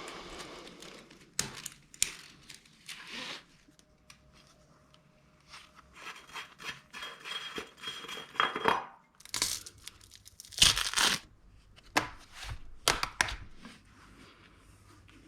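Handling noise at a workbench: a series of irregular tearing and crinkling sounds, the loudest about two-thirds of the way through, with a few sharp knocks.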